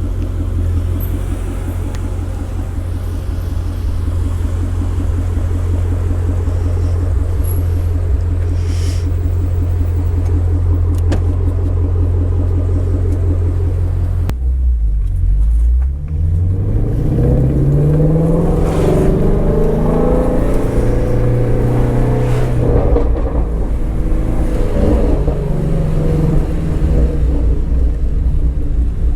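Shelby GT350R's 5.2-litre flat-plane-crank V8 running at a steady cruise. About halfway through the revs drop briefly, then the engine note climbs for a few seconds as the car accelerates before settling into a steady run again.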